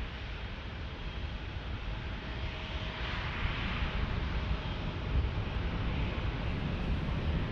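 Jet airliner engine noise, a steady rumble with a rushing hiss, growing gradually louder as the aircraft comes in to land.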